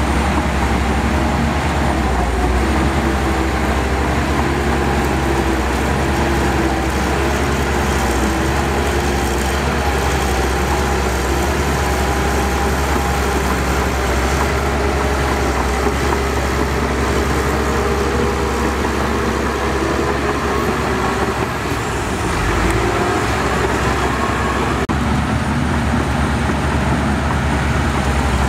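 Heavy diesel earthmoving machinery running: a steady low engine rumble, with the engine pitch wavering up and down as it works.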